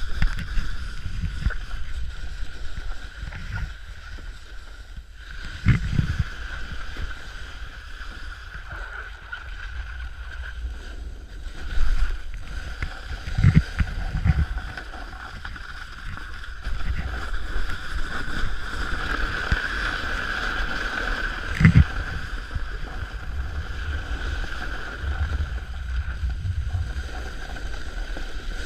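Snowboard sliding fast down a hard, icy slope: a steady scraping hiss of the board on the snow over wind rumble on the microphone, with a few thuds as the board hits bumps.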